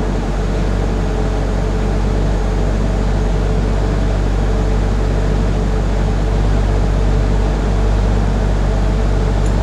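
Ford Aerostar minivan engine idling steadily.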